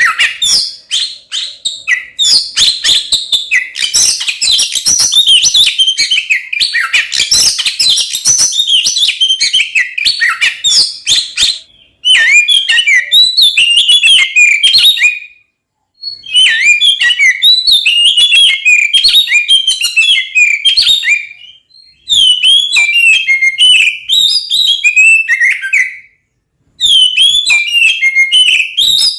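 Oriental magpie-robin (kacer) singing a loud, fast, jumbled song of rapid whistles and harsh clicking notes. The notes run densely for about twelve seconds, then come in phrases broken by short pauses.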